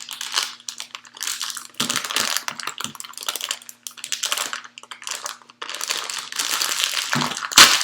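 A bag of bird seed crinkling and rustling as it is handled, in irregular bursts, with one loud sharp crackle near the end.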